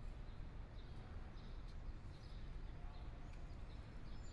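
Small birds chirping faintly now and then over a low, steady background rumble.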